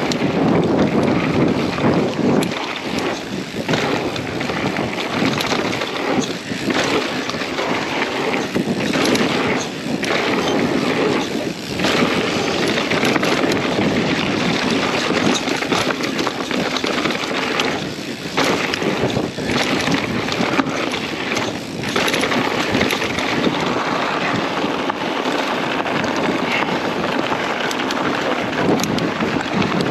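Wind buffeting the microphone of a camera riding along on a mountain bike on a dirt trail, over a steady rush of tyre and trail noise with frequent short knocks and rattles from bumps.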